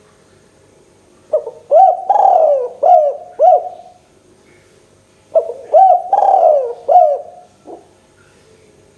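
Spotted dove (tekukur) cooing: two phrases of several rhythmic coos, the second starting about a second and a half after the first ends.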